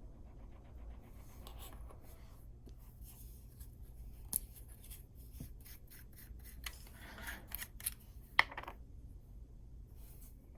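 Small hand work on 3D-printed plastic parts: scattered light clicks and scraping strokes, with a sharper click about eight and a half seconds in.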